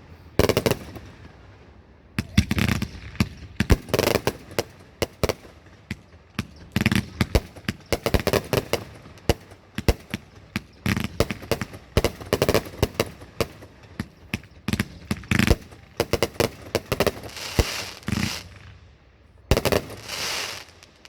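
Fireworks going off: volleys of rapid sharp bangs and crackling in clusters of a second or two, with short gaps between volleys.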